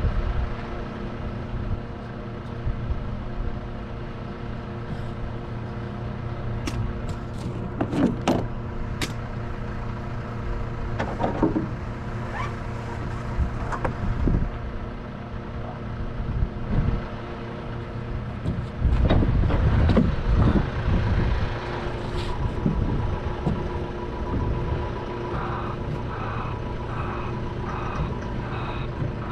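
Heavy truck's diesel engine idling steadily, with scattered clanks and knocks. Near the end a repeating electronic beep starts, about two beeps a second.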